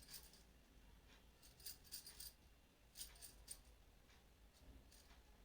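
Faint light clinks and rustles from hands handling and tucking in a saree, coming in a few short clusters about a second apart.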